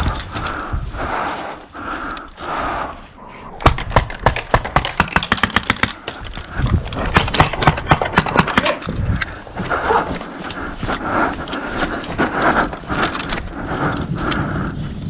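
Airsoft gunfire: rapid strings of sharp shots for about five seconds in the middle, between steady rhythmic footsteps before and after.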